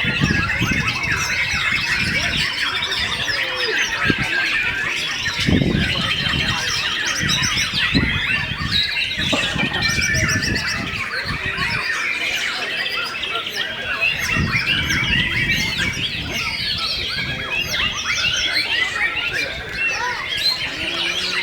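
Many white-rumped shamas singing at once, a dense, unbroken tangle of fast whistles, chirps and trills.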